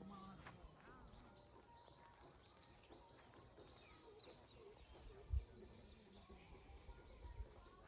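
Faint outdoor ambience: a steady high insect drone with many quick chirps in the first few seconds, and a single low thump a little after the middle.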